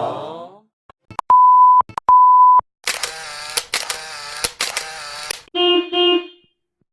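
Two short steady beeps at one pitch, each about half a second long, like a censor bleep. After them comes a few seconds of a pitched sound broken by sharp clicks, then two short low tones near the end.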